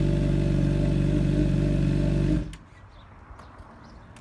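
Straight-piped 2008 Honda CBR600RR inline-four running steadily at idle, then cutting off about two seconds in.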